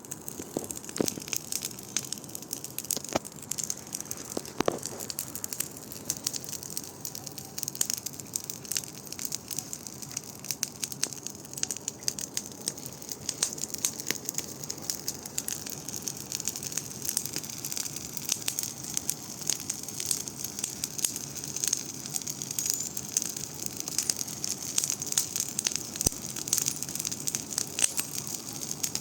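Large wood bonfire burning, with constant crackling and frequent sharp pops over a steady rush of flame.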